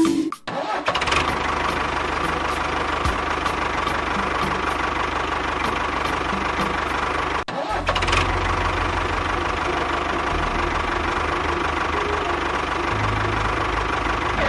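A motor running steadily, with a brief cut about halfway before it carries on.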